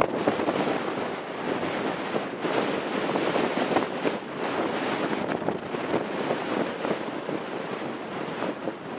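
Train cars rolling past at close range, a dense clatter of steel wheels over the rails with many sharp clicks, mixed with wind on the microphone.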